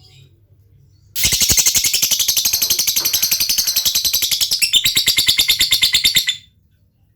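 Lovebird giving a long 'ngekek': an unbroken, rapid chattering run of sharp high notes lasting about five seconds, starting suddenly after a few faint tweets and stopping abruptly.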